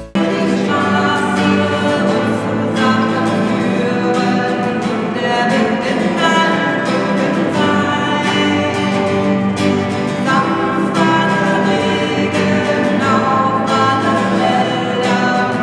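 A group of voices singing together to strummed acoustic guitar.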